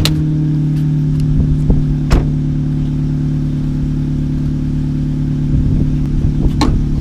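Turbocharged 1.4-litre four-cylinder engine of a 2013 Dodge Dart idling steadily, with a few sharp knocks over it.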